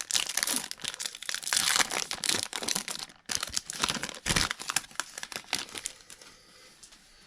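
Trading card pack wrapper being torn open and crinkled by hand, in dense crackling bursts with a short pause about three seconds in and a dull knock shortly after; the crackling dies away near the end.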